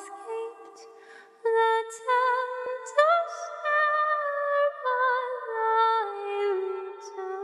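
A cappella hymn singing: several voices in close harmony hold long notes with a gentle vibrato and move together from chord to chord, with no instruments.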